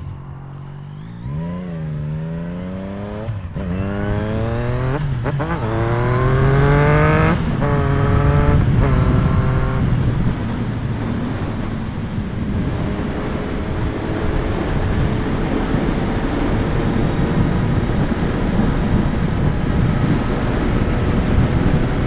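Yamaha MT-09's three-cylinder engine through an Akrapovic carbon full exhaust, pulling hard up through the gears: the pitch climbs and drops at each of several upshifts over the first ten seconds, then the bike cruises at a steady speed with wind noise on the microphone.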